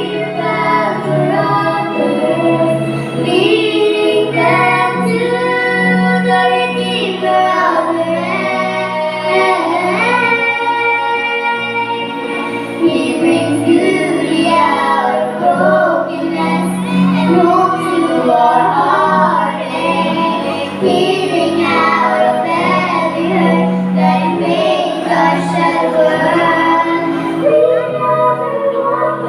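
A sibling vocal group singing a song together over continuous instrumental accompaniment.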